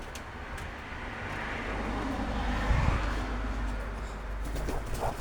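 A passing road vehicle: a rumble and tyre hiss that swells to a peak a little past halfway, then fades.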